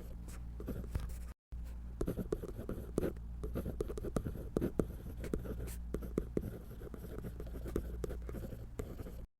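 Pen or pencil strokes scratching on paper while drawing, in quick irregular strokes over a steady low hum; it breaks off briefly about a second and a half in and cuts off suddenly near the end.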